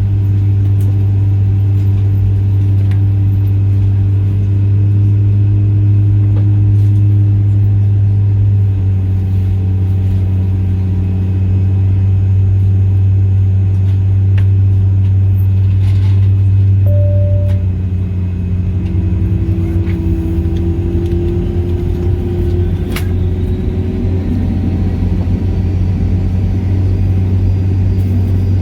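Rolls-Royce RB211 turbofan of a Boeing 757-200 starting up, heard from inside the cabin: a steady low drone with several steady tones over it. The tones shift in pitch about a third and two thirds of the way in, and a faint rising whine comes in during the last third as the engine spools up.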